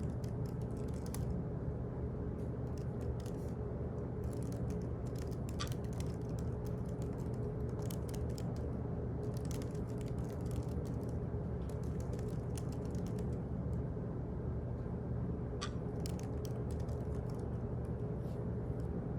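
Office ambience: a steady low electrical or ventilation hum, with irregular runs of computer-keyboard typing clicks coming and going over it.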